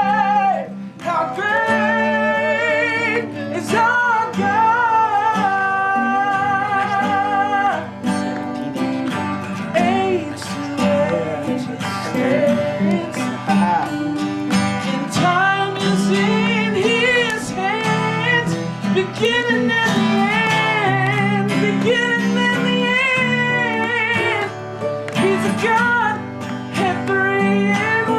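A worship song sung with acoustic guitar accompaniment: voices holding long, wavering notes over steady strummed chords.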